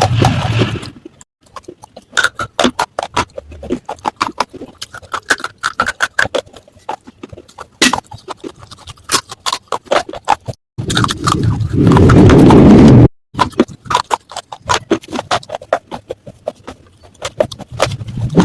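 Baked clay matka pieces crunched and chewed close to the microphone: rapid, irregular sharp cracks, with a loud dense grinding stretch at the start and another about two-thirds through.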